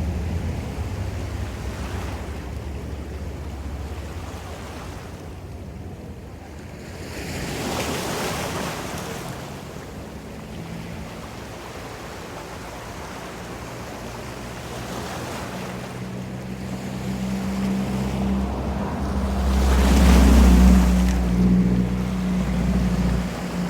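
Ocean waves washing ashore, two swells building and breaking, about 8 seconds in and more loudly about 20 seconds in, with wind rumbling on the microphone. A low, steady hum joins in the second half.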